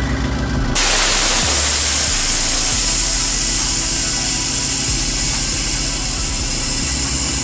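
Mini truck's air ride suspension dumping air: a loud, steady hiss of compressed air venting from the valves starts suddenly about a second in, with a faint high whistle sliding slowly down as the pressure drops and the truck lowers.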